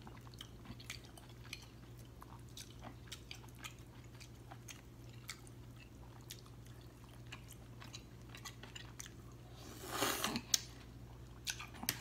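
Close-miked eating of green-lipped mussels: faint wet chewing and small mouth clicks, with a louder, longer slurp from the shell about ten seconds in.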